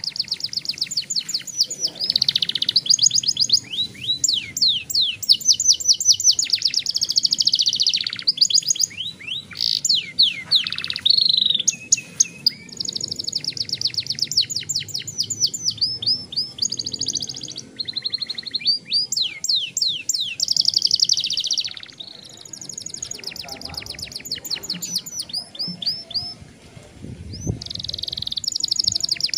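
Young domestic canary singing long rolling trills: fast runs of repeated high notes, one run after another, with only short breaks between them.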